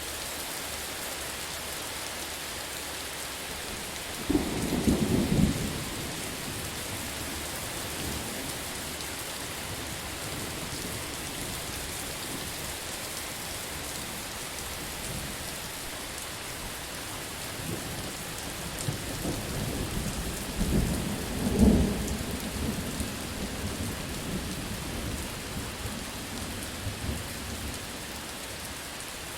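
Steady heavy rain hissing on surfaces, with a short burst of thunder about four seconds in and a longer, louder roll of thunder in the second half.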